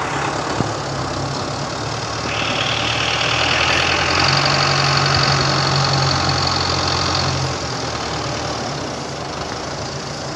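Tractor engine running under heavy load as it strains on a chain to drag a stuck trailer out of a hollow. It works harder from about two seconds in and drops back near the end.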